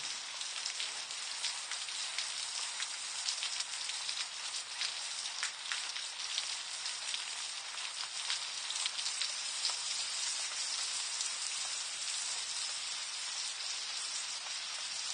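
Steady rain falling, a dense even hiss with many small ticks of individual drops.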